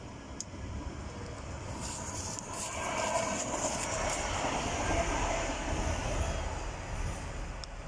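Czech Railways (ČD) electric multiple unit passing close by: rumble and rushing wheel-on-rail noise building up, loudest in the middle, then easing off as it runs away.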